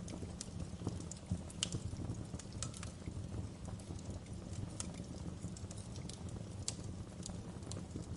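Fire burning, with irregular sharp crackles and pops over a steady low rumble.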